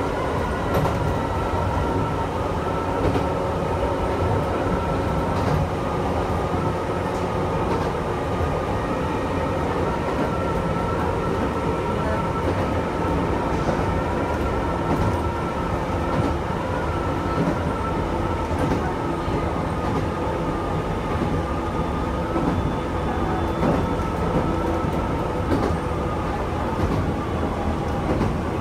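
Chichibu Railway electric train running at a steady speed, heard from inside the driver's cab: a rumble of wheels on rail with a steady whine on top and occasional clicks from the track.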